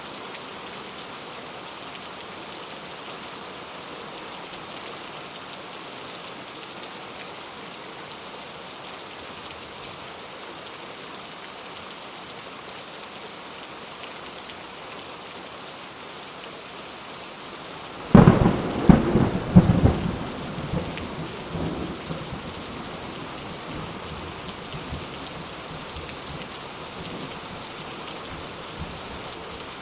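Steady rain falling, with a sudden thunderclap about two-thirds of the way through that rumbles away over a few seconds.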